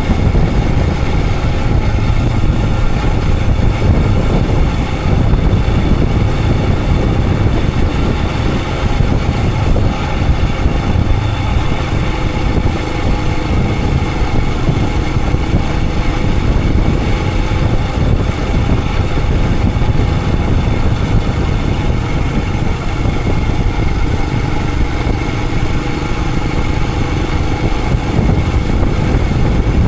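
Royal Enfield Himalayan 411's single-cylinder engine running steadily on the move, with a low rumble and no change in pace.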